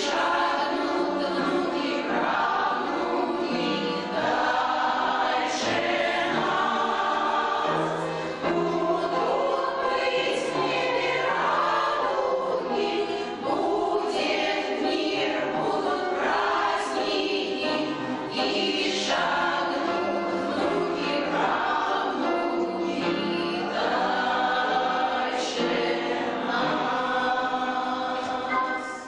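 Amateur choir of older singers singing a song, in phrases of long held notes.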